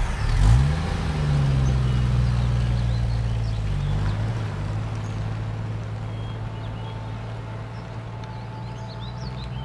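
A car engine sound effect: the engine starts up with a rising pitch about half a second in, then runs as a steady low drone that slowly gets quieter.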